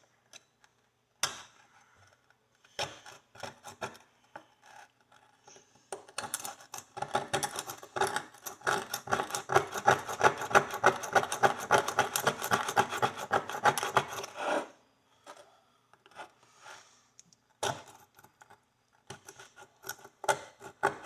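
Rapid scraping of a hand pick against an old steel horseshoe, digging packed dirt out of the nail crease. Scattered clicks and scratches at first, then a dense run of fast strokes in the middle that stops suddenly, then a few more scrapes.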